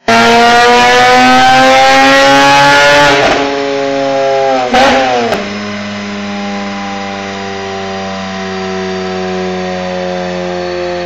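Mazda RX-8 rotary engine through an RE-Amemiya Super Dolphin exhaust, revving loudly with pitch climbing for about three seconds, then letting off. A quick blip of the throttle follows about five seconds in, and the engine then settles to a steady idle.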